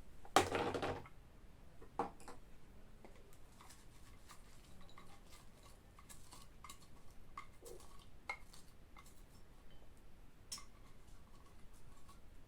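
Kitchen utensils and dishes being handled: a short scraping clatter about half a second in, a sharp knock at two seconds, then scattered light clicks and taps.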